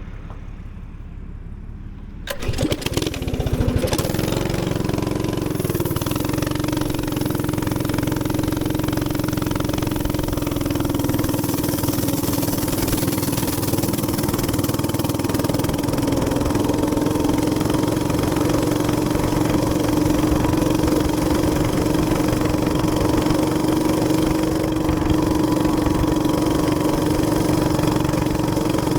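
Gas minibike engine starting about two seconds in, then running steadily at an even pitch.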